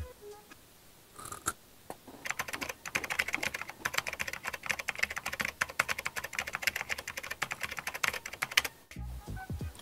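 Crunching of a bite of batter-fried coconut flesh being chewed close to a clip-on mic: a rapid run of crisp crackles from about two seconds in, stopping shortly before the end.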